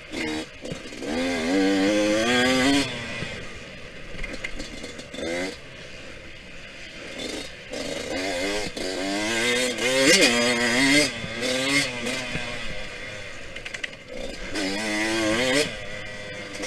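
Yamaha YZ125X two-stroke single-cylinder dirt bike engine revving hard through the gears in repeated bursts, its pitch climbing and then falling off between them as the rider accelerates and backs off around the track.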